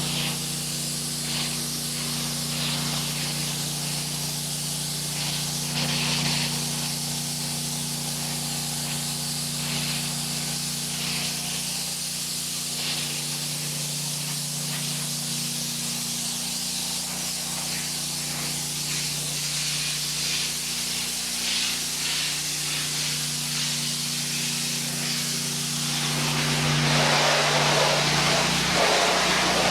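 Honda-engined 8 gpm pressure washer running steadily, with the hiss of its water spray over the engine's even hum. About 26 seconds in, the spray grows louder and fuller.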